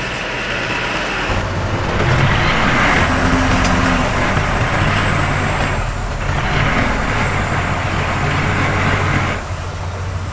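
Diesel engine of a heavy earthmoving machine working under load. It throttles up about a second and a half in, eases briefly around six seconds, and drops back near the end, with a rough mechanical noise over the engine note.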